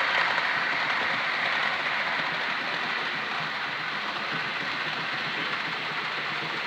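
Model train running along the track: a steady whirr of the locomotive's motor and wheels on the rails, slowly getting quieter.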